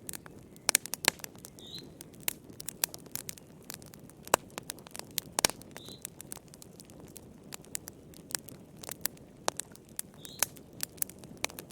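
Wood fire crackling: irregular sharp pops and snaps over a low steady hiss of burning. A faint short high chirp comes about every four seconds.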